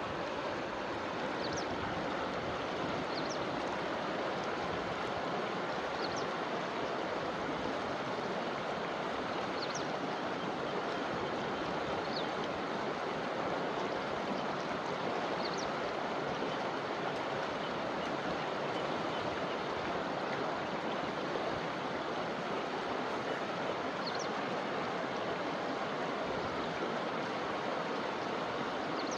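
Forest river flowing steadily, an even rush of water over the streambed. Faint short high chirps come through every few seconds.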